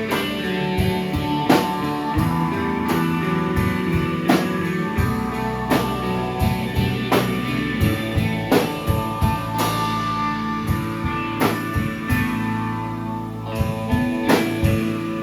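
Live band playing an instrumental passage: guitar notes ringing over a drum kit keeping a steady beat.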